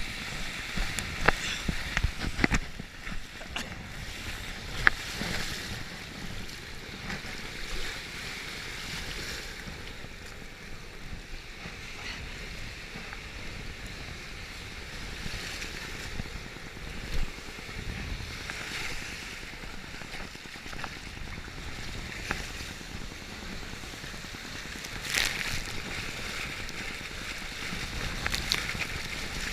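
Water sloshing and splashing against a jet ski, with wind on the microphone. Several sharp splashes come in the first few seconds, then a steadier wash of water and wind noise.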